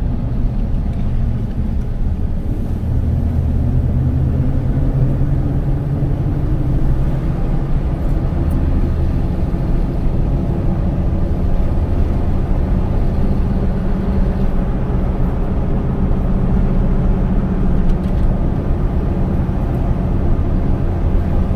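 Car driving along a road: a steady low rumble of engine and tyres, the engine hum shifting slightly in pitch now and then.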